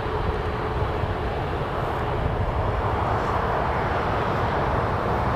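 Jet airliner engines heard across the airfield, a steady rushing rumble that slowly grows louder.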